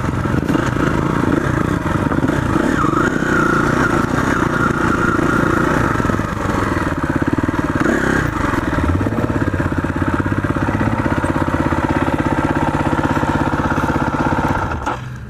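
Motorcycle engine running steadily while riding, its pitch shifting about two-thirds of the way through; the sound drops away sharply near the end.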